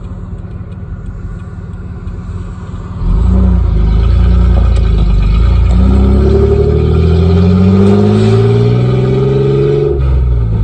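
Nissan truck engine running with no exhaust, sounding like a tractor. It runs low and steady at first, gets much louder about three seconds in as it pulls, and climbs steadily in pitch before dropping back near the end.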